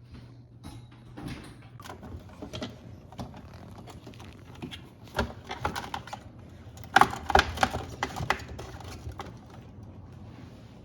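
Plastic clicks, knocks and rattles as refrigerator ice-dispenser parts are handled and fitted back into place. The loudest cluster of knocks comes about seven to eight seconds in, over a low steady hum.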